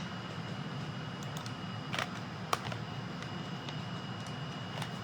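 Steady low hum with a few light clicks and taps from craft supplies being handled.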